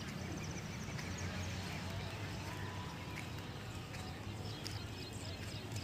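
Heavy machine's diesel engine running steadily at low speed, with small birds chirping over it.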